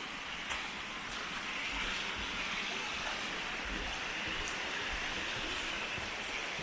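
Rushing creek water, a steady hiss.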